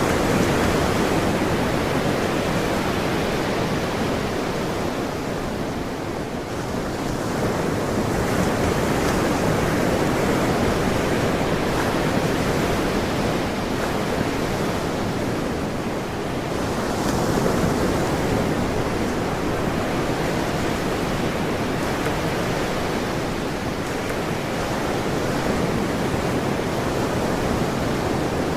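Ocean surf: waves breaking and washing in a continuous rush that swells and eases slowly, with a surge every several seconds.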